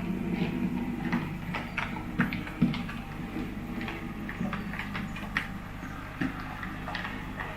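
N gauge model train running on the track: a steady low motor hum with irregular clicks from the wheels on the rails.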